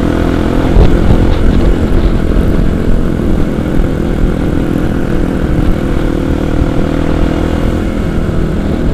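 Kawasaki KLX 250's single-cylinder four-stroke engine running at a steady cruise, with strong wind buffeting the microphone.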